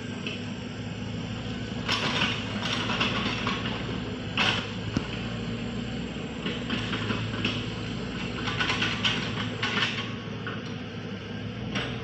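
A heavy machine's engine running steadily, with irregular bursts of scraping and clattering through the middle.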